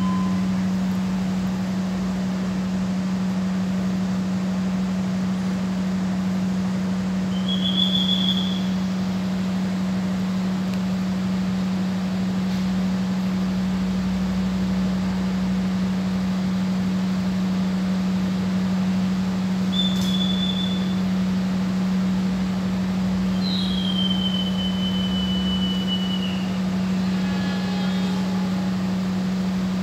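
Ambarawa Ekspres passenger train standing at the platform with its diesel power running at idle: a steady low hum over a hiss of noise. Short high whistle-like tones sound about a quarter of the way in and again past the middle, the last one longer and falling.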